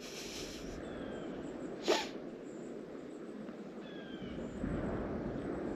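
Steady outdoor background noise. A short hiss comes at the start, one sharp click about two seconds in, and a few faint, high, falling chirps.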